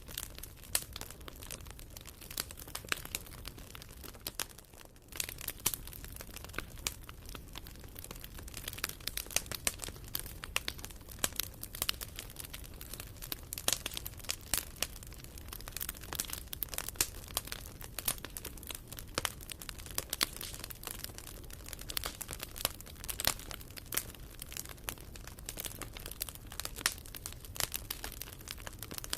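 Wood fire crackling in a fireplace: burning logs giving irregular sharp pops and snaps over a low steady rumble. There is a brief lull about five seconds in.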